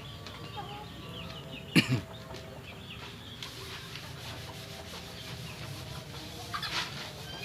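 Chickens clucking with small birds chirping, over a low steady hum. About two seconds in there is a brief, loud noise, the loudest sound, and a smaller one near the end.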